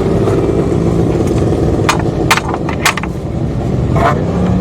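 Vintage racing motorcycle engine running steadily under a heavy rushing noise, with several sharp cracks in the second half.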